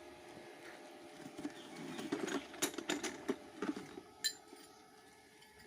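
A hammer driving climbing pegs into a large tree trunk: an uneven run of knocks starting about two seconds in, ending with a sharp metallic clink a little after four seconds.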